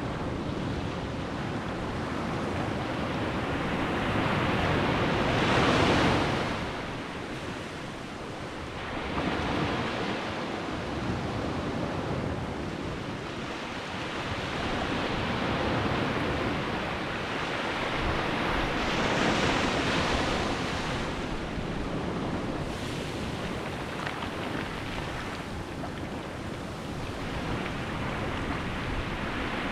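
Sea waves breaking and washing onto the beach, a steady rush of surf that swells in surges every few seconds, loudest about six seconds in and again around twenty seconds in.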